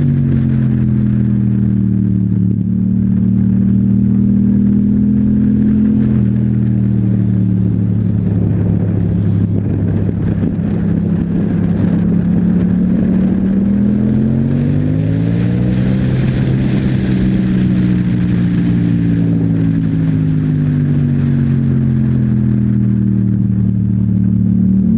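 2015 Yamaha MT-07's 689 cc parallel-twin engine running through an Akrapovic exhaust while riding: holding steady revs, rising about fourteen seconds in, then slowly easing off and rising again near the end.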